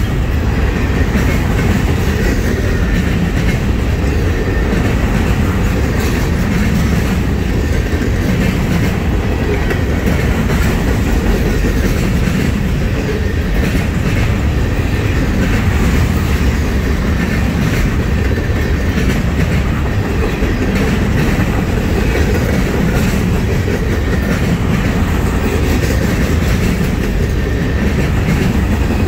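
Freight cars of a trash train, flatcars loaded with waste containers, rolling steadily past: a continuous loud rumble of wheels on rail with scattered clicks as the wheels cross rail joints.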